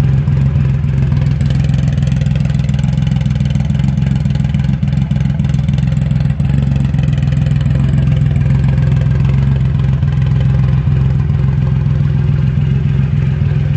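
Triumph Roadster motorcycle idling steadily through an aftermarket exhaust pipe, a deep even engine note.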